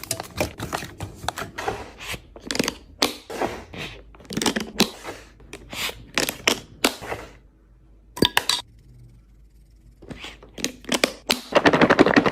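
Fridge restocking sounds: plastic containers, bottles and packaging set down, clicked and rustled in quick succession. Things go quieter for a couple of seconds after the middle, apart from two sharp clicks, and near the end comes a fast run of rattling clicks.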